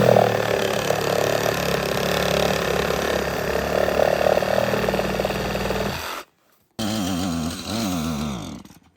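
A small petrol engine running steadily under load for about six seconds and then cutting off. After a short gap it runs again, its pitch rising and falling as the throttle is worked.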